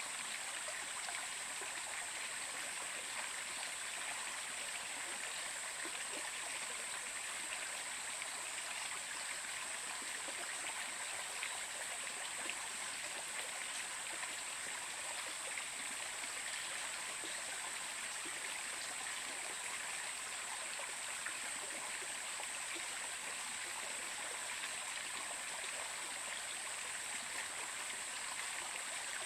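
Stream water flowing steadily, an even rushing that does not change.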